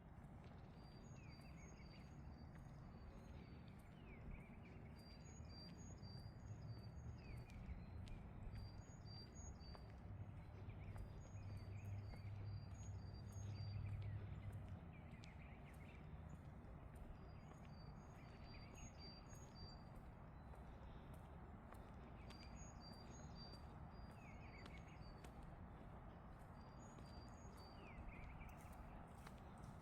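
Faint footsteps walking on a trail at a steady pace, with birds chirping in short repeated high notes. A low rumble swells for several seconds near the middle.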